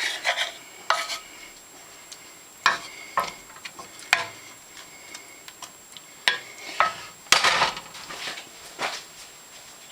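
A utensil scraping and tapping against a pan and dish in short, irregular strokes while cheese is spooned and spread over sauced chicken in the pan.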